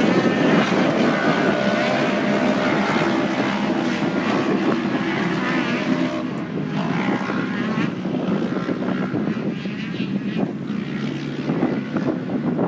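Steady hum of a quadcopter drone's propellers, mixed with the engines of off-road race vehicles running, louder in the first half.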